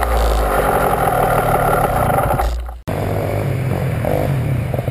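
Dirt bike engine running with a loud, rough rumble. It breaks off abruptly about three seconds in, then a dirt bike engine runs on at low revs with an even putter.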